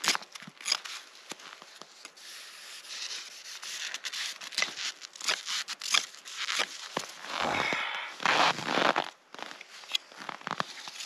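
A knife scraping and shaving a frozen grayling in uneven strokes, with a longer, louder run of scraping near the end. The fish is frozen stiff.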